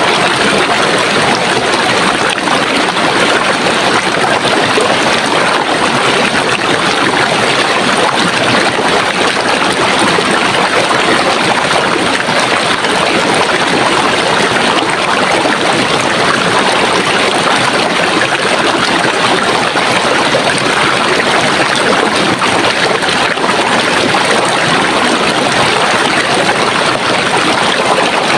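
Running water in a stream, a steady, even rush and burble with no breaks.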